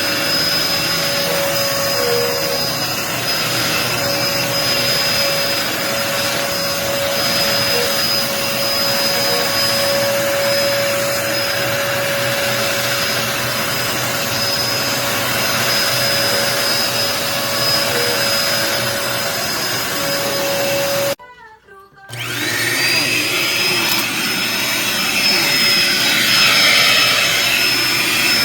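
Dirt Devil Endura Reach bagless upright vacuum cleaner running steadily, a whooshing hum with a high motor whine. About three-quarters of the way through it cuts out for under a second, then comes back with the whine rising as the motor spins up again.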